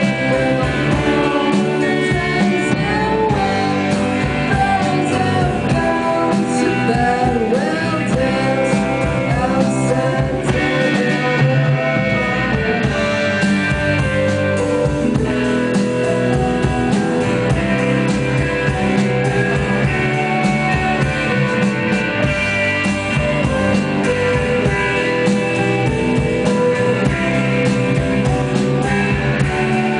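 A rock band playing live, with guitar and drum kit going steadily throughout.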